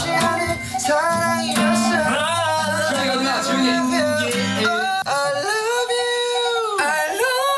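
A voice singing with instrumental accompaniment, sliding between notes and holding a long note in the second half.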